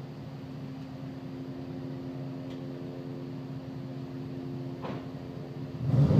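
Turbocharged Chevrolet Camaro idling steadily through a Borla Type S exhaust, then starting to rev up sharply near the end.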